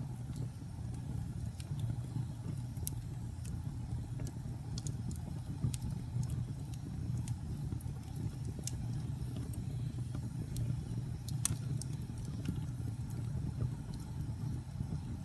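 Wood fire burning in a fireplace: a steady low rumble of flames with irregular sharp crackles and pops, the loudest pop about eleven seconds in.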